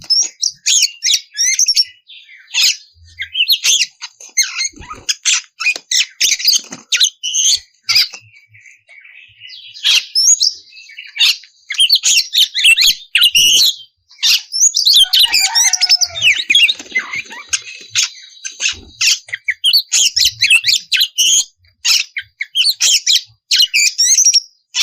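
Oriental magpie-robin (kacer) singing non-stop: a rapid run of varied whistles, trills and harsh chattering notes, with a brief lull about nine seconds in.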